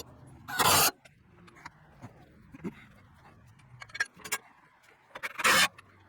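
Mower blades being refitted on a zero-turn mower deck: scattered metal clicks and knocks, with two short, loud hissing bursts of noise, about half a second in and again near the end.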